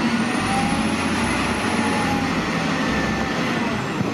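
Steady rush of spraying water washing mud off a toy loader.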